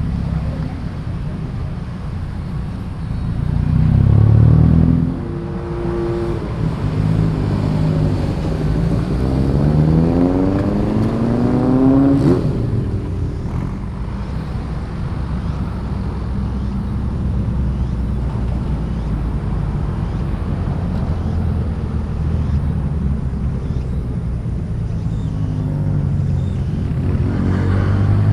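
Car engines running as cars pull away one after another, with a steady low rumble. About eight seconds in, one engine revs up in a long rising pitch and cuts off sharply about twelve seconds in, like a gear change.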